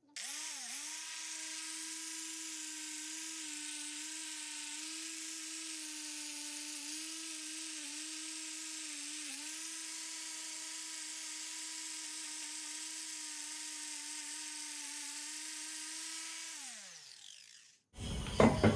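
Angle grinder running a copper wire-wheel attachment, stripping paint from a steel motorcycle frame: a steady high motor whine with a scratchy hiss, the pitch dipping briefly a few times as the wheel is pressed into the metal. Near the end it is switched off and winds down, the pitch falling until it stops.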